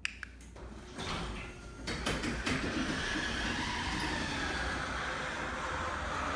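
Unlubricated garage door in motion: a few clicks near the start and about two seconds in, then a steady rattling rumble with a faint wavering squeal, the noise of dry rollers, hinges and springs that need lubricating.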